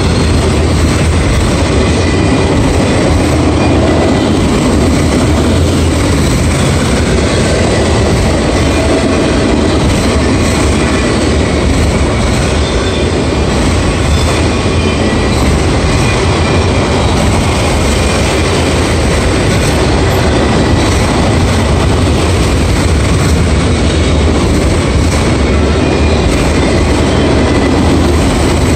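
Autorack freight cars rolling steadily past: a loud, continuous rumble and clatter of steel wheels on the rails.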